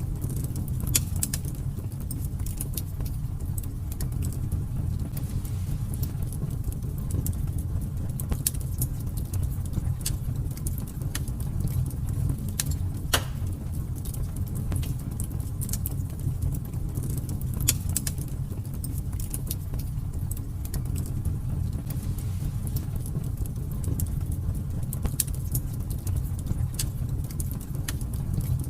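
Wood fire burning in a fireplace: a steady low rumble of flames with frequent sharp crackles and pops, one louder pop about thirteen seconds in.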